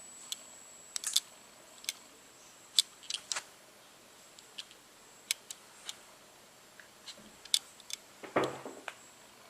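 Sony NEX-5N mirrorless camera making its clicking-noise fault: sharp, irregular clicks, a dozen or so at uneven intervals, some in quick pairs. A louder, longer rustling click comes near the end.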